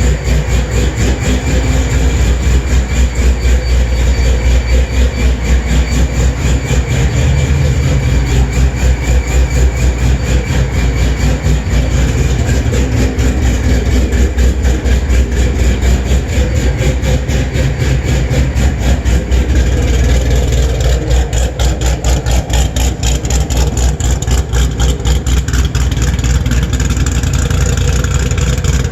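Loud, steady idle from a 2014 Camaro SS's 416-cubic-inch LS3 V8, still warming up after a cold start, with an even, rapid exhaust pulse and no revving.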